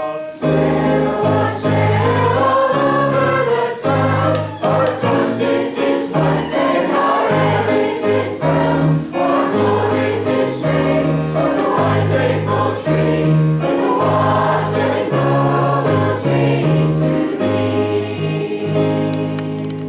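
Choir singing a song with instrumental accompaniment, fading near the end.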